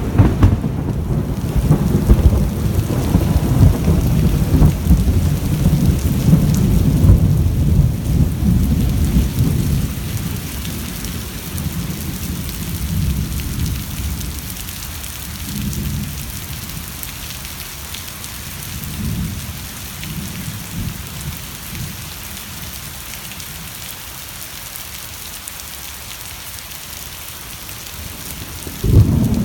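Rain falling steadily under a loud low rumble that starts just before, fades over about ten seconds, swells briefly a few more times, and comes back suddenly near the end.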